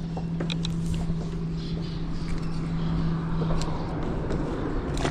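A motor drones steadily at one pitch, dropping to a lower pitch near the end, under a rushing of wind on the microphone.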